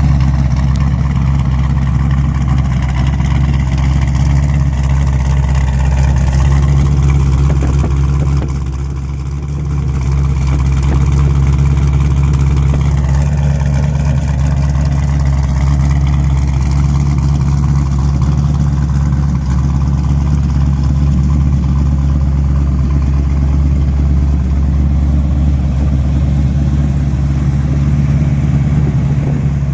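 1932 Ford truck's engine running steadily, with a brief drop in level about nine seconds in.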